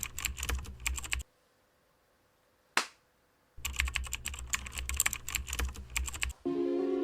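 Typing on a computer keyboard: two runs of rapid key clicks separated by about two seconds of silence, with a single short swish in the gap. Music begins just before the end.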